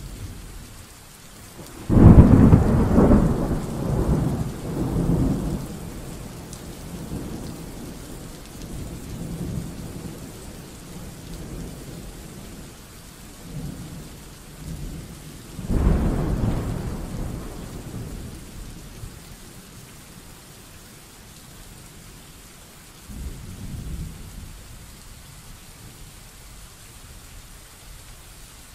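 Steady rain with rolling thunder. A loud thunderclap comes about two seconds in and rumbles away over several seconds, a second comes about halfway through, and a weaker one comes near the end.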